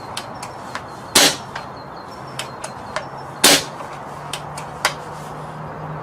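Two sharp shots about two seconds apart, with lighter clicks between them, typical of air rifles or guns firing on a shooting range.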